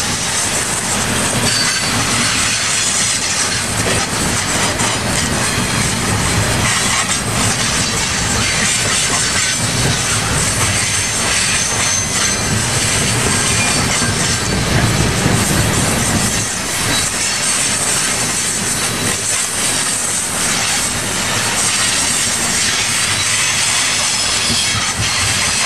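A train rolling past, its steel wheels clattering over the rails in a continuous loud rush, with a few thin high squeals. A low rumble under it eases off about two-thirds of the way through.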